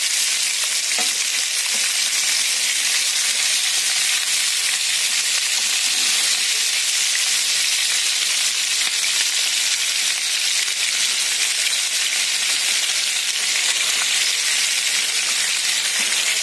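Raw chicken pieces sizzling steadily in hot oil in a frying pan as they are first seared, with a wooden spoon turning the pieces.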